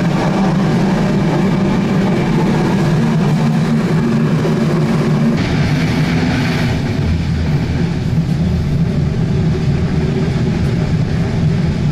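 Old passenger train running, a loud steady rumble heard from inside the carriage; the pitch of the rumble drops about five seconds in.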